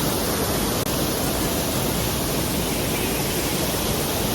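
Waterfall's falling water rushing steadily, with a split-second break about a second in.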